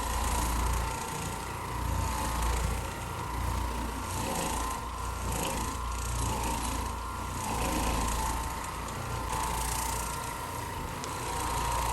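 Carpet-cleaning machine running steadily, with a constant whine and a rushing hiss over a low rumble, swelling and easing every second or two.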